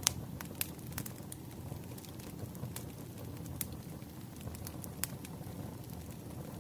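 Wood fire crackling: irregular sharp pops, the loudest right at the start, over a steady low rumble of burning logs.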